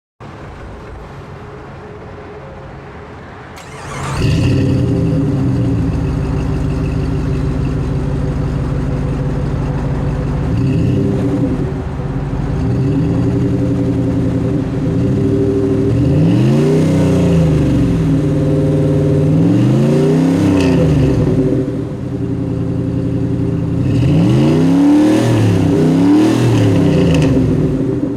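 1998 Jeep Grand Cherokee's 5.2 L V8 running through a Flowmaster 50 Series SUV cat-back exhaust. It runs steadily, growing much louder about four seconds in, then is revved repeatedly in short blips, each rising and falling in pitch, through the second half.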